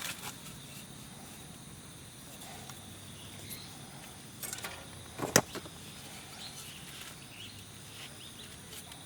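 Quiet outdoor ambience with a faint steady high insect-like drone, broken by a few small clicks about four and a half seconds in and one sharp snap about a second later.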